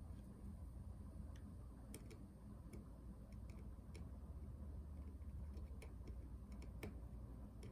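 Faint, irregular light clicks and ticks of small hand tools on the opened laptop's metal casing as tiny keyboard screws are worked out, over a steady low hum.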